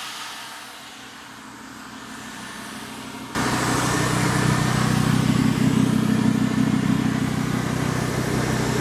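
Car engine running. The sound jumps abruptly louder a little over three seconds in and then holds steady.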